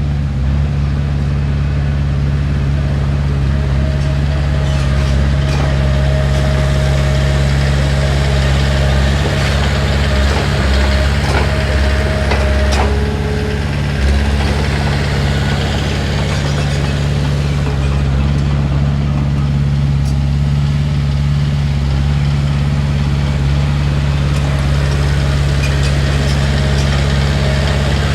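Heavy diesel engine of earthmoving machinery running steadily. A faint thin whine rises over it for several seconds in the middle, then gives way to a lower short tone.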